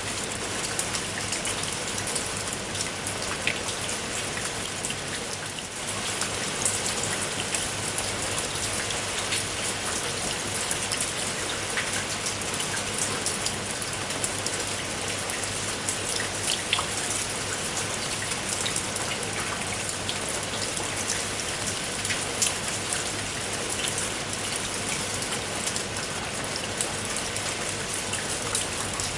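Steady rain falling, with many separate raindrops striking sharply through the even hiss of the downpour.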